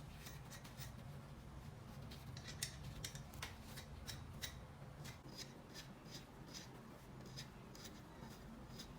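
A series of small, sharp clicks and snips of hand work, irregular at about two or three a second, over a faint low steady hum.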